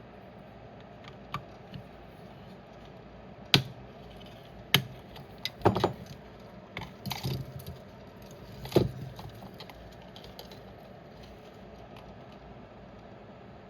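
Irregular sharp clicks, taps and knocks of small tools and plastic parts handled while wireless headphones are taken apart, with a brief rattle about 7 seconds in.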